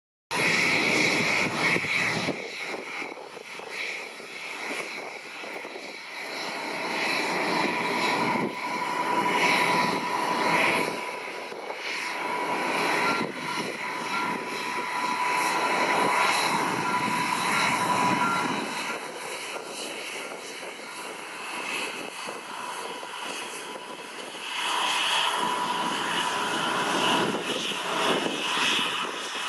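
Boeing 787-8 airliner's Rolls-Royce Trent 1000 jet engines running, a steady rushing noise with a high whine that swells and eases several times.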